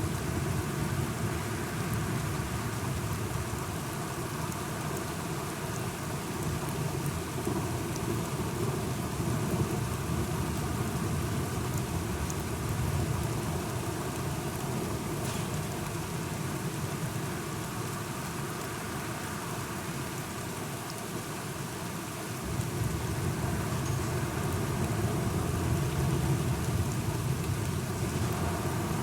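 Steady rain with a low rumble of thunder underneath. The rumble grows louder about three quarters of the way through.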